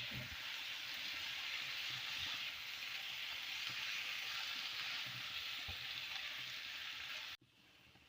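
Food frying in hot oil, a steady sizzle that cuts off abruptly near the end.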